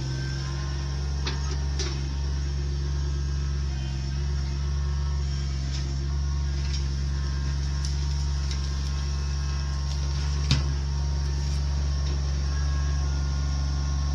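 Engine of land-clearing machinery running steadily at an even speed, with a few light knocks and one sharper knock about ten and a half seconds in.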